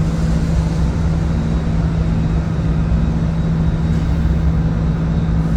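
Diesel locomotive running with a steady low drone and rumble.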